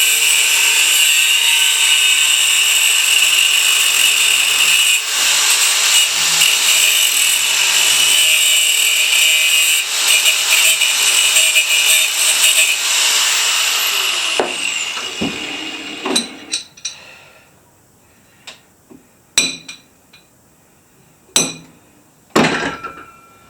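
Electric grinder cutting into a rock concretion: a steady, loud, high-pitched grinding. About thirteen seconds in it is switched off and winds down with falling pitch. Several sharp knocks and clicks follow near the end.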